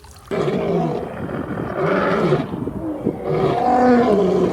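Tiger roaring and growling in long, rough calls, starting just after the beginning.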